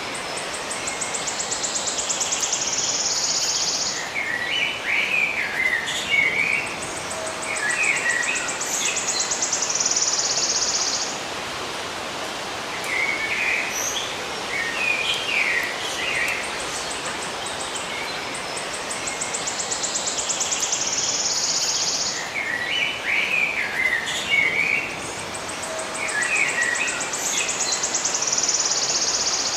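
Birds chirping in short scattered phrases, alternating with a high, fast-pulsed buzzing trill that lasts a few seconds at a time, over a steady background hiss.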